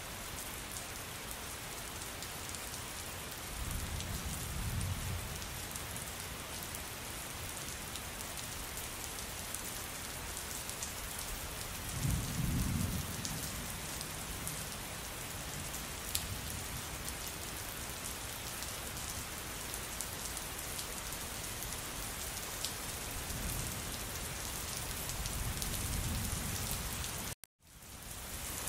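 Steady rain with low rumbles of thunder, about four seconds in, around twelve seconds, and building again near the end. Near the end the sound cuts out abruptly for a moment and fades back in, a gap in the recording.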